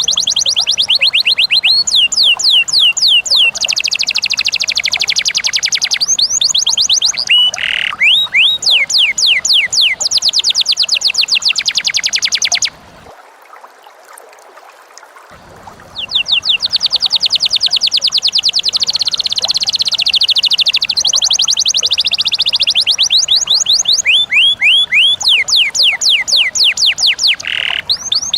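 Pet bird singing long runs of rapid, evenly repeated shrill notes, each dropping in pitch. It pauses for about three seconds near the middle, then starts again.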